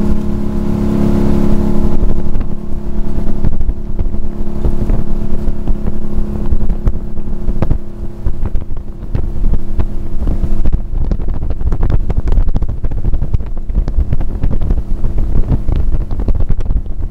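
Motorboat engine running steadily as the boat cruises, a little louder in the first couple of seconds, with wind buffeting the microphone.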